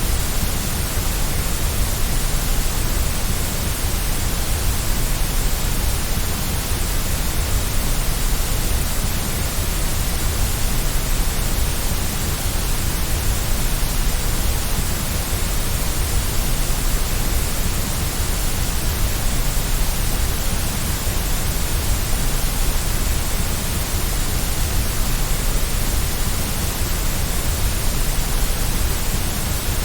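Steady white noise: an even, unbroken hiss across the whole range, with no changes.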